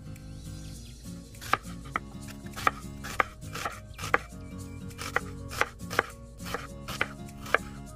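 Steel kitchen knife slicing a half onion on a bamboo cutting board: about a dozen crisp chops, roughly two a second, starting about a second and a half in, each a knock of the blade on the wood.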